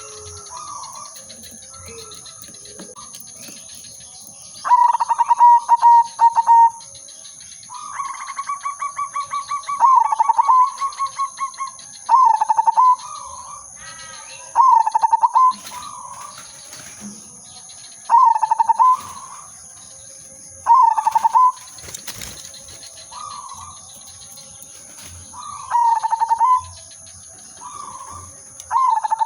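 Zebra dove (perkutut) singing: two long, stuttering, rolling coo phrases, then a string of short coos repeated every two to three seconds.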